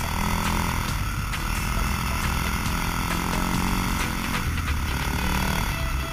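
Dirt bike engine running under throttle while riding. The engine note drops off briefly about four and a half seconds in, then picks up again.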